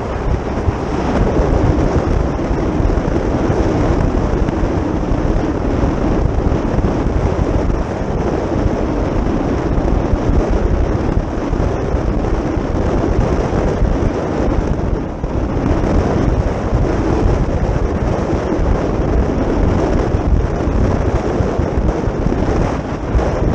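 Loud, steady wind rushing over the microphone, with a low rumble from a moving vehicle.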